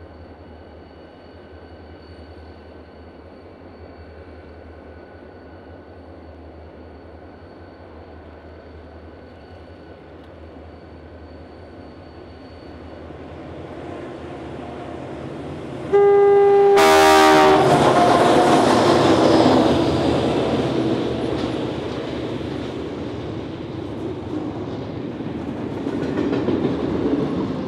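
Diesel locomotives idling with a faint steady hum; about 16 seconds in, a passing diesel locomotive sounds a short horn blast, the loudest sound, then its engines and a long string of container wagons rumble and clatter by on the near track.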